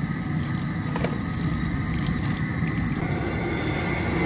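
Steady noise of a propane-fired crawfish cooker's burner heating a big pot of water that is just coming to the boil.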